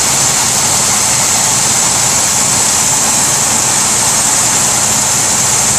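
Old diesel truck engine idling steadily, running again after sitting unused for a couple of years.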